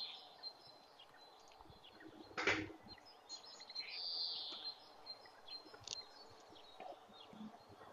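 Faint birds chirping in the background, with a knock about two and a half seconds in and a fainter click near six seconds.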